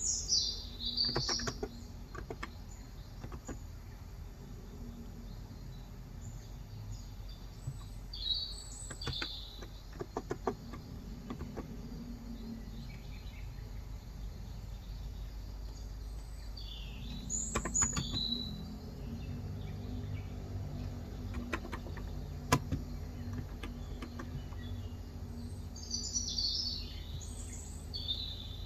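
Intermittent bursts of typing on a Cox Endeavor electrostatic capacitive (non-contact) keyboard with 35 g switches, a few quick keystrokes at a time. Small birds chirp in short calls several times over a steady low background hum.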